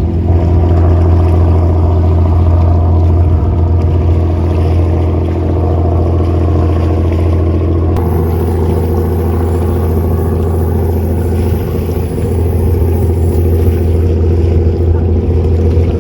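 Motorboat engine running steadily: a loud low hum whose tone shifts about eight seconds in.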